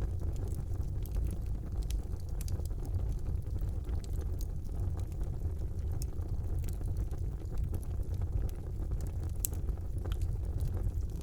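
Wood fire burning in a fireplace: a steady low rumble with frequent small crackles and pops scattered throughout, and a sharper pop about nine and a half seconds in.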